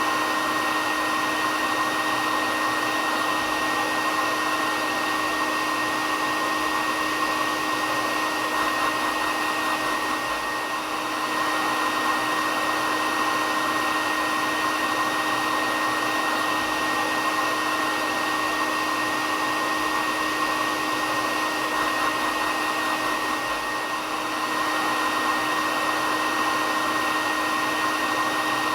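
Hair dryer running steadily: a constant blowing hiss with an even motor whine, dipping slightly in level twice.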